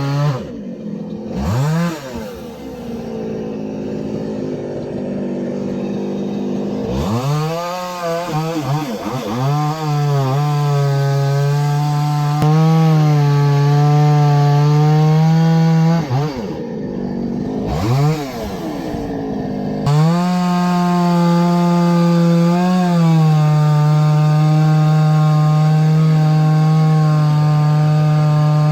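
Chainsaw running at high speed, cutting firewood logs. The engine note drops and climbs back several times as the throttle is let off and opened again between cuts, then holds steady at full speed.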